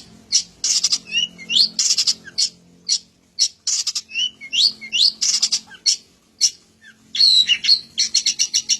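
Long-tailed shrike (cendet) singing a varied, loud song of harsh chattering phrases mixed with rising whistled notes, the learned 'isian' phrases borrowed from other birds. Near the end it breaks into a quick run of repeated sharp notes, about eight a second.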